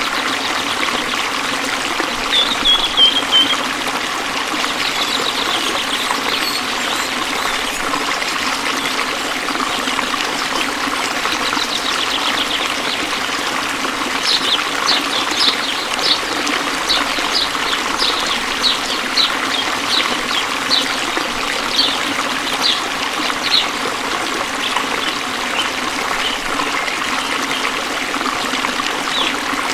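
Waterfall: a steady rush of falling water. A few short falling chirps come a couple of seconds in, and about halfway through a run of short high chirps repeats about twice a second for some ten seconds.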